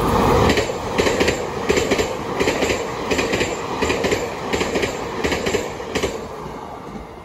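Taiwan Railway train passing by, its wheels clacking over rail joints in evenly spaced pairs over a steady rumble. The clacks stop about six seconds in and the sound fades as the train moves away.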